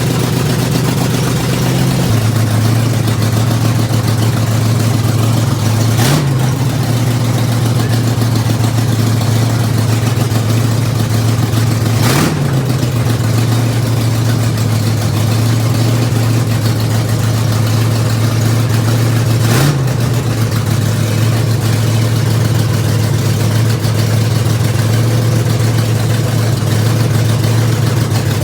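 Freshly built Oldsmobile 455 big-block V8 running steadily at a raised idle during its first-start camshaft break-in. Its speed drops slightly about two seconds in, and there are brief sharp blips about 6, 12 and 20 seconds in.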